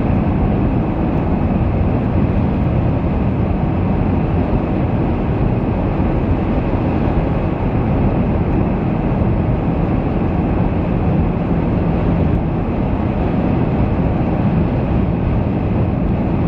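Steady road and engine noise inside the cabin of a car driving on a highway, with no single sounds standing out.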